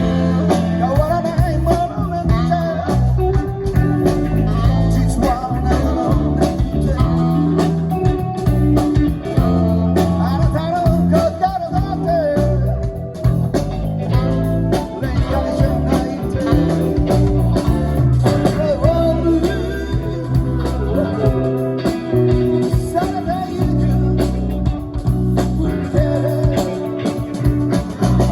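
A live rock band playing a bluesy song: guitar over bass and drums, with a lead line or vocal wavering above.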